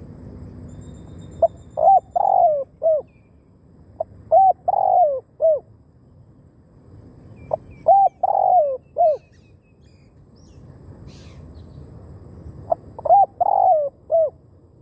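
Spotted dove cooing: four phrases of three or four notes, several seconds apart, each a short note followed by a longer one and ending on a falling note. A faint high chirping from another small bird is heard near the start.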